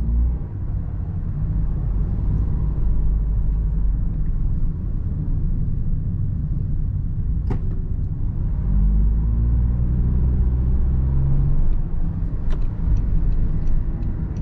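Cabin sound of a Toyota Sienta's 1.5-litre three-cylinder petrol engine pulling in Power drive mode, over steady road rumble, with the engine note climbing about nine seconds in. A sharp click about seven and a half seconds in, and light regular ticks near the end.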